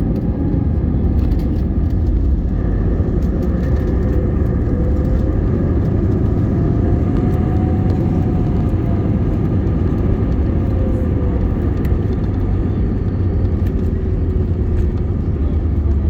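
Airbus A321neo cabin noise: a steady low rumble from the engines and airflow, with a faint engine tone drifting slowly up and down.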